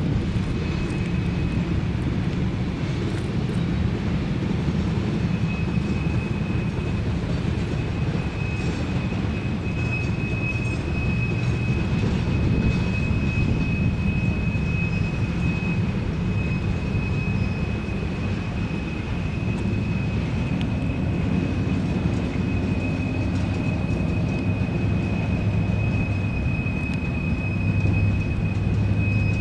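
Train rolling by on CSX track: a steady rumble of wheels on rail, with a thin, continuous high-pitched whine over it from about half a second in.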